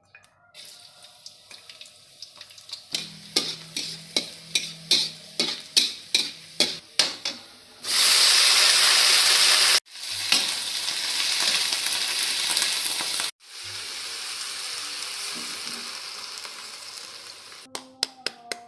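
Vegetables stir-frying in hot oil in a pan: a loud sizzle starts abruptly about eight seconds in and runs on, breaking off sharply twice and then continuing softer. Before it comes a run of sharp taps, about two a second, and a few more taps near the end.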